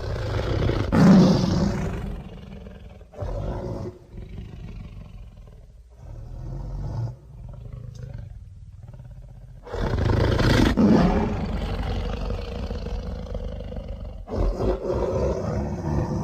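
Sound-designed giant monitor-lizard creature voice, layered from Komodo dragon, megalania and tarbosaurus sounds. It gives a loud roar, then several shorter, quieter growls, then two long roars in the second half.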